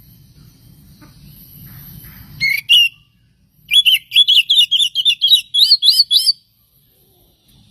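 Oriental magpie-robin (kacer) singing: one loud upward-sweeping note, then after a short pause a fast run of about a dozen short, sharp notes, the last few sweeping upward.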